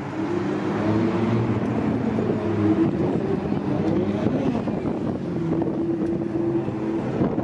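Engines of several Ferrari sports cars running at low speed as they roll down the pit lane one after another, a steady engine note that wavers slightly in pitch.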